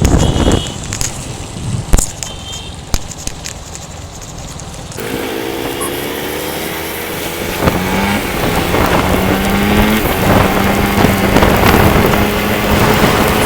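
Scattered knocks over a low rumble, then a bus engine running under a loud hiss of rain and road noise. About five seconds in, the engine's pitch rises as it pulls away, then settles into a steady hum.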